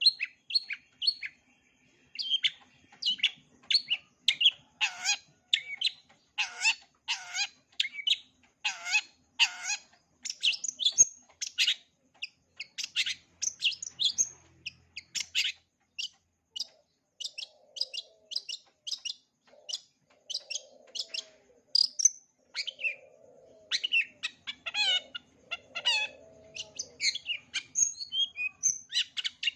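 Long-tailed shrike (cendet) singing: fast runs of sharp, high notes repeated a few times a second, with lower harsh chattering phrases in the second half.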